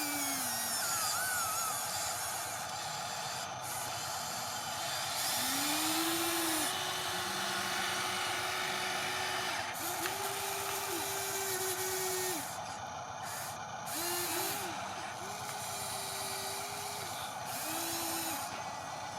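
Electric motors of a radio-controlled construction machine whining in several separate runs, each rising in pitch as it spins up and then holding steady before cutting off, over a steady hiss.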